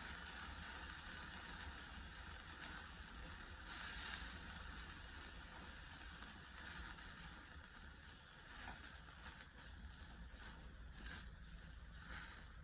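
Horumon (offal) grilling over a campfire: a steady sizzle with a few louder flare-ups along the way.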